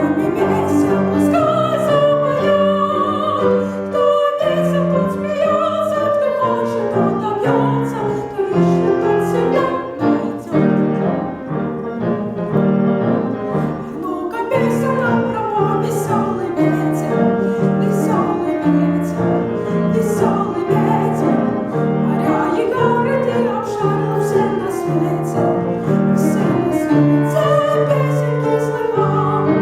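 A solo singer in academic classical style performing a song with piano accompaniment.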